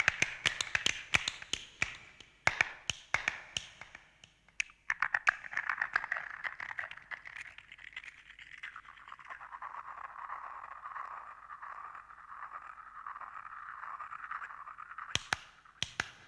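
Primitive percussion of the kind played on reconstructed prehistoric instruments: a run of quick sharp tapping clicks that thins out, then about ten seconds of a steady scratchy, rasping texture, ending with a few sharp clicks.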